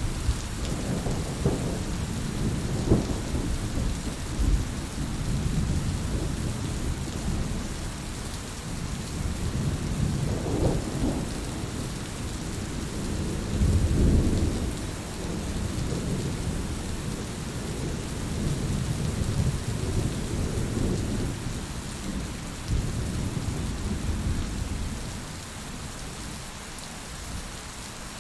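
Steady rain falling, with deep rumbling thunder that swells and fades several times, loudest about a quarter and half of the way through, and dies down near the end.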